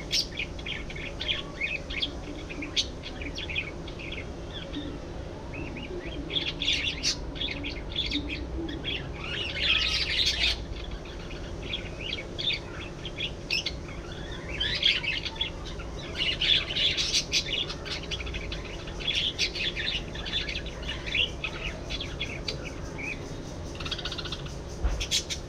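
A flock of budgerigars chattering and warbling: many quick, overlapping chirps, busier in stretches, over a faint steady hum.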